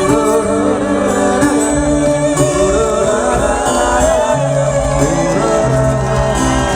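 Live band music: a singing voice over instrumental accompaniment, with a bass line stepping between held low notes.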